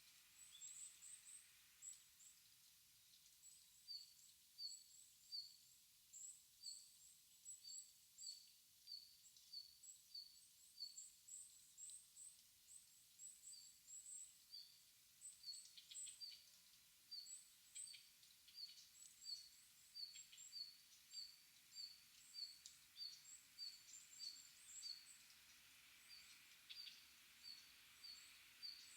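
Small birds calling faintly: one keeps up a steady run of short, high notes a little under two a second, while others twitter higher above it.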